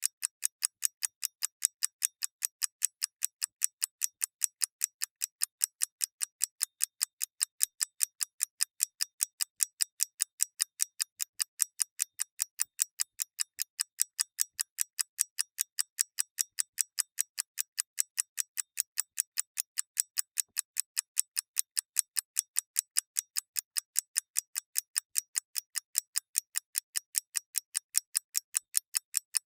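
Mechanical clock ticking steadily: quick, evenly spaced sharp ticks, several a second, with no break.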